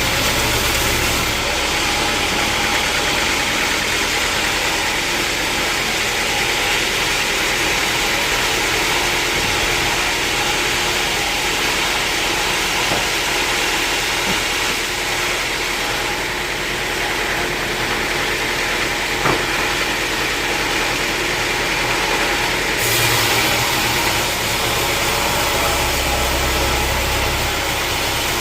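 Sawmill machinery running steadily, a loud, even mechanical drone with one sharp click about nineteen seconds in.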